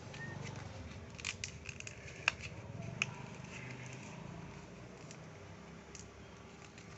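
Sheet of paper being folded in half and creased by hand, crinkling with a cluster of sharp crackles a second or two in, then quieter handling.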